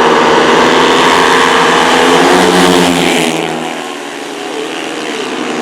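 Speedway motorcycles, 500 cc single-cylinder methanol engines, racing past at full throttle, loud for about three seconds before the sound falls away as they move off down the track.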